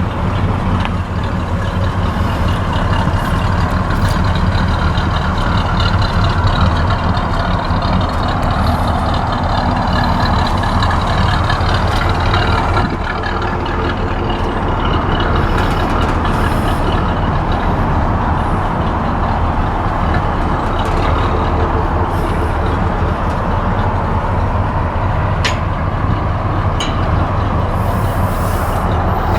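1966 Chevrolet C-10 pickup's 350 V8 running steadily under a continuous rush of noise, with a brief dip in level about 13 seconds in.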